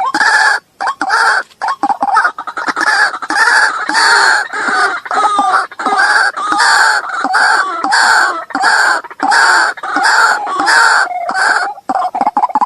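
White-breasted waterhen (ruwak-ruwak) calling loudly with a harsh, repeated 'kruak' note, about two calls a second, breaking into quicker short notes near the end. This is a recorded lure call for drawing the birds in.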